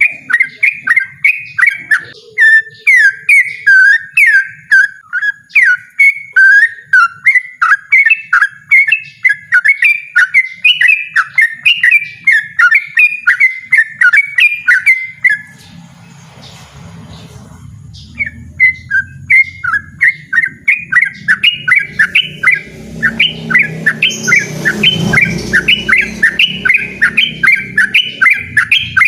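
Yellow-vented bulbul singing a loud, rapid run of short chirping notes, about three a second, breaking off for a few seconds about halfway through before starting again. A low rumble sits under the song in the second half.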